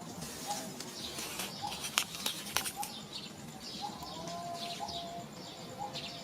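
Birds chirping repeatedly in short, quick calls, with one longer whistled note a little past the middle and two sharp clicks about two seconds in.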